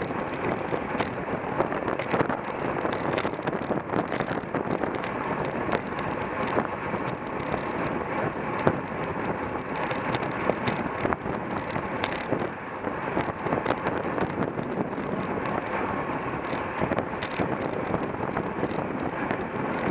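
Wind rushing over the microphone of a camera on a racing bicycle, mixed with road and drivetrain noise, with scattered clicks and knocks.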